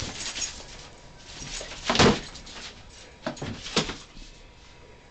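A puppy at play: a few short knocks and scuffles, the loudest about two seconds in.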